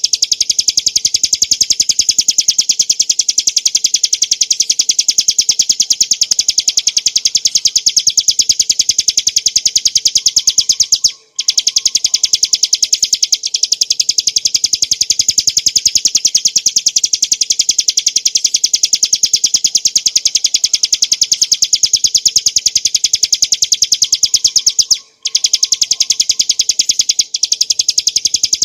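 Ciblek gunung (a small prinia) singing a fast, unbroken run of high, rapidly repeated notes, with two brief pauses.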